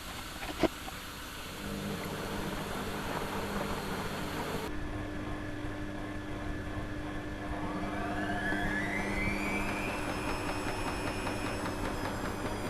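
Washing machine running on freshly replaced drum bearings, with a sharp click just under a second in and a steady motor hum. From about eight seconds in, a whine rises steadily and then levels off as the drum spins up to speed.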